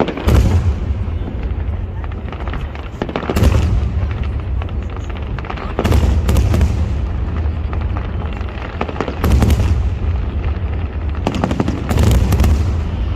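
Aerial fireworks display: shells bursting with deep booms every two to three seconds, crackle between them and a continuous low rumble, with several bursts close together near the end.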